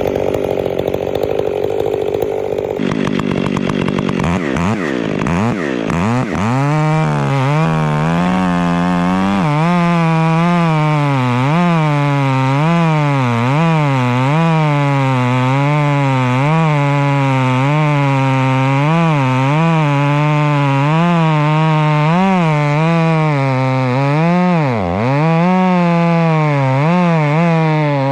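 Stihl 500i fuel-injected two-stroke chainsaw with a 32-inch bar and full skip chain, run at full throttle to buck a 21-inch fir log. About three seconds in the pitch drops as the chain bites into the wood, then wavers up and down under load through the cut. Near the end the revs sag sharply once and recover.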